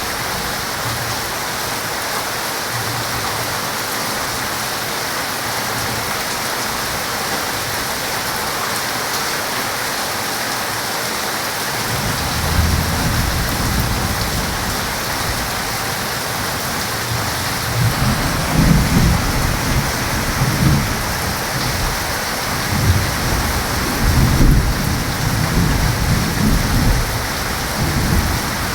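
Heavy rain pouring in a steady hiss, with thunder rolling in low rumbles from about halfway through, growing heavier and more frequent near the end.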